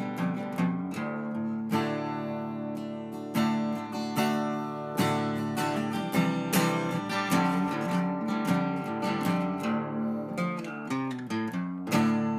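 Acoustic guitar music with strummed chords, ending on a last strum near the end that rings out.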